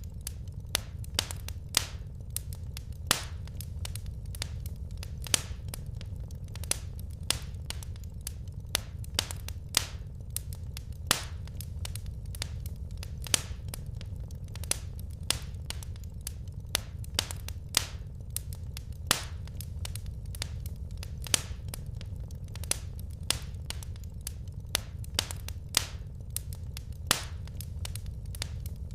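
Wood fire in a fireplace crackling: sharp, irregular pops and snaps, a few a second, over a steady low rumble.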